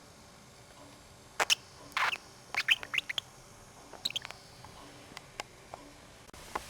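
Budgerigar giving a quick run of short, sharp chirps, starting about a second and a half in, followed by a few faint clicks.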